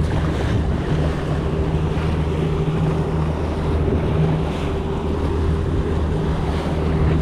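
Boat engine running steadily at trolling speed with a low, even hum, over the rush of wind on the microphone and water along the hull.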